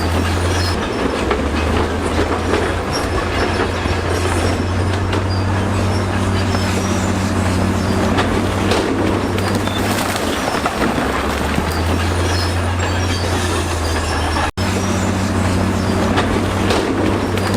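Crawler bulldozer's diesel engine running steadily under load while its steel tracks clank and squeal, with rocks scraping and grinding under the blade. The sound drops out for an instant once near the end.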